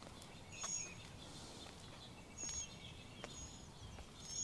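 Small birds chirping, with short high calls about four times, over faint outdoor background noise.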